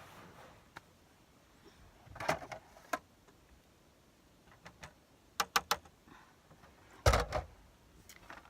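Scattered clicks and knocks of small objects being handled, with a quick run of four clicks about five and a half seconds in and a heavier thump about seven seconds in.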